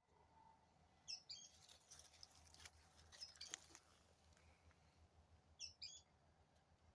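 Faint bird chirps: short clusters of quick high notes about a second in, again around three seconds, and once more near six seconds. Faint crackling or rustling between them.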